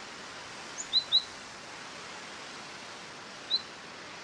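A bird giving short, sharp chirps, a quick pair about a second in and one more near the end, over a steady outdoor hiss.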